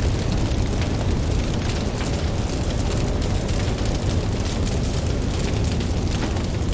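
Campfire crackling with frequent irregular pops over a steady low rumble of ocean surf.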